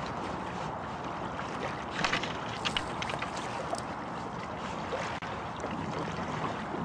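Outdoor wind and water noise with a few soft knocks and rustles about two to four seconds in, as a paddler squeezes into the tight cockpit of a skin-on-frame style Greenland kayak.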